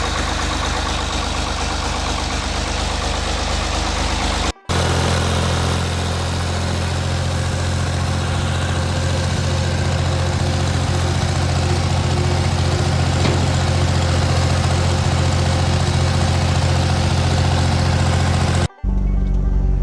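Ford 3600 tractor's three-cylinder diesel engine running steadily, smooth again on freshly replaced fuel lines and fuel filter. The sound breaks off abruptly twice for a split second, about four and a half seconds in and near the end.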